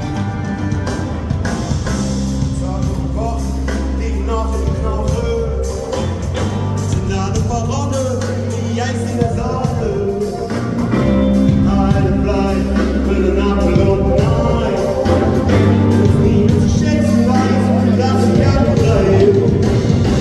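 Rock band playing live with sung vocals; the band gets louder about eleven seconds in.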